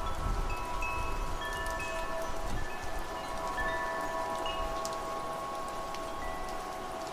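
Wind chimes ringing, several metal tones of different pitches struck at irregular moments and overlapping as they decay, over a steady hiss of rain. Low gusts of wind rumble briefly near the start and again about two and a half seconds in.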